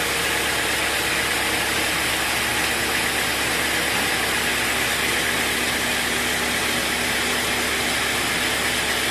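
Sawmill machinery running with a steady, even mechanical noise and no change in pace.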